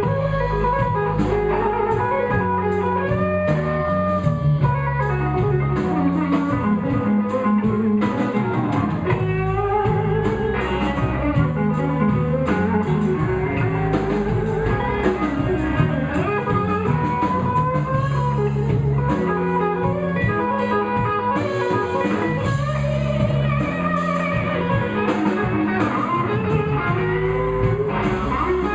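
Live blues band playing an instrumental passage: electric guitar lead with bending notes over bass and drum kit.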